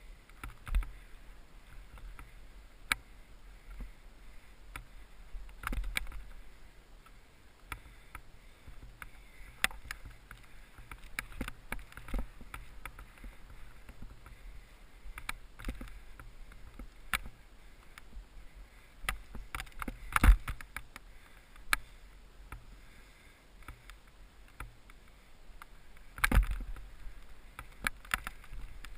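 Skis running through powder snow with wind rushing on an action camera's microphone, broken by irregular knocks and thumps, the loudest about twenty seconds in and again near the end.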